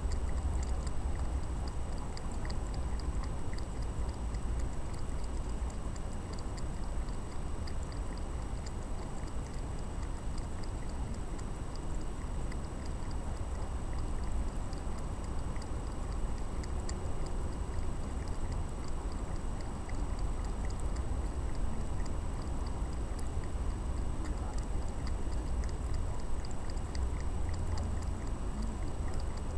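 A cat crunching dry food: faint, irregular crunches over a steady low rumble.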